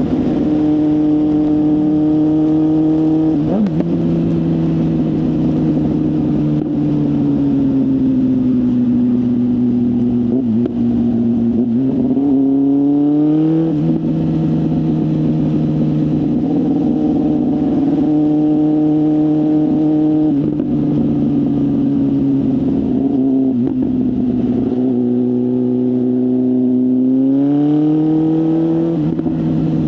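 BMW S1000RR inline-four engine with a full aftermarket exhaust, heard while riding at moderate revs. The engine note holds fairly steady and eases down, then rises as the throttle opens, about a third of the way in and again near the end.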